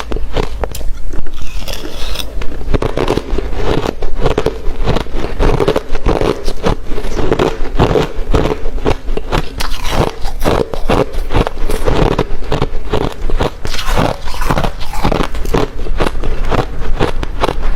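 Close-miked chewing of hard refrozen crushed ice: rapid, irregular crunching and crackling as mouthfuls are bitten and ground between the teeth.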